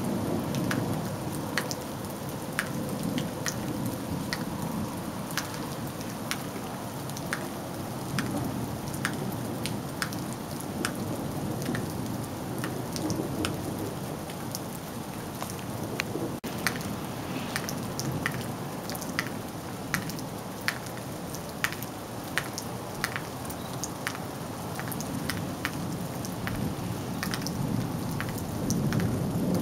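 Steady rain in a thunderstorm, with sharp drops ticking on something hard close by about once or twice a second. Low thunder rumbles underneath and swells near the end.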